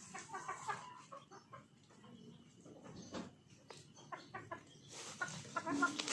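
Chickens clucking: two runs of short, quickly repeated clucks, one at the start and another building after about four seconds.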